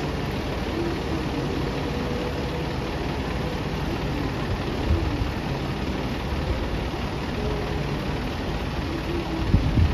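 City bus engine running steadily, with low thumps about halfway through and again near the end.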